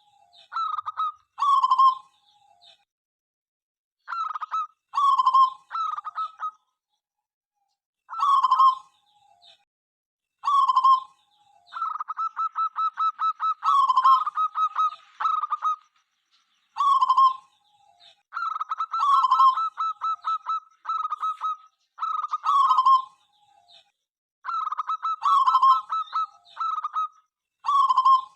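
Zebra dove (perkutut) singing: repeated cooing phrases, some opening with a fast stuttering run of short notes before the lower drawn-out coo, each phrase a second or two apart.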